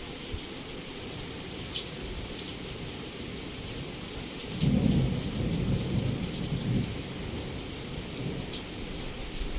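Heavy rain falling steadily, with scattered drops ticking. About halfway through, a roll of thunder comes in suddenly and rumbles low for about two seconds before fading back under the rain.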